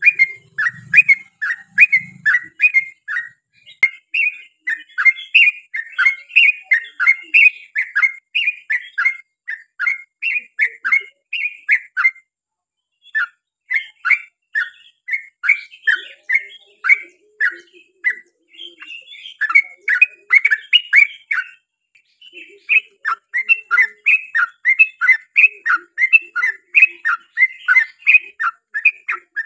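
Yellow-vented bulbul (trucukan) singing a long, rapid run of short chirping notes, several a second, with brief pauses about 12 and 18 seconds in.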